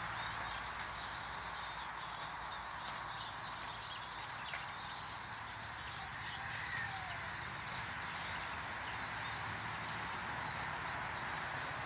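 Small garden birds chirping and twittering over a steady background hiss of outdoor noise.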